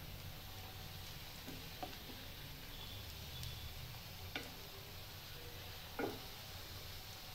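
Puris frying in hot oil with a steady faint sizzle, and three light clicks of a utensil against the pan, the loudest about six seconds in.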